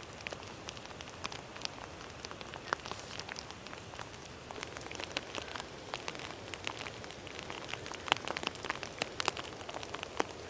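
Rain falling steadily, with many separate drops striking close by; the drops grow denser about halfway through.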